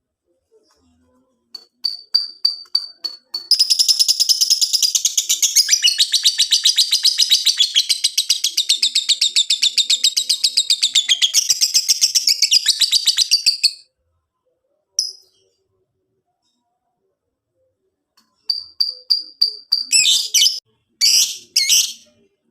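Lovebird singing a long 'ngekek', the fast unbroken chattering trill prized by Indonesian keepers. The trill runs about ten seconds. Shorter bursts of rapid high chirps come before it, a lone chirp follows, and harsher bursts of chirps come near the end.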